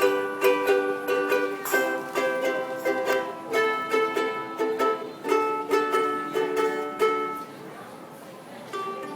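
Ukulele strumming chords in a steady rhythm, easing off to a quieter ringing stretch about three-quarters of the way through before the strumming picks up again.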